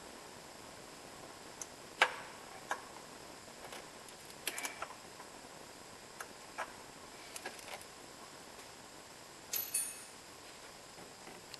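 Sparse sharp clicks and light knocks of tools and engine parts being handled during repair work, over a steady low hiss. The loudest click comes about two seconds in, with a short cluster near the middle and a double knock near the end.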